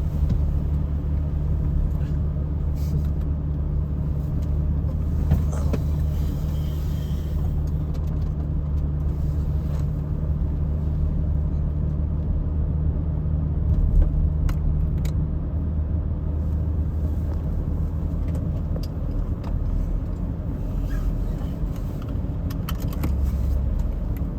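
Steady low rumble of a car driving, heard from inside the cabin: engine and road noise with a few small clicks.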